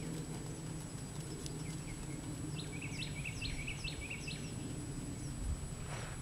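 Outdoor ambience with a steady low background rumble, and a small bird giving a quick run of about six chirps, roughly three a second, around the middle.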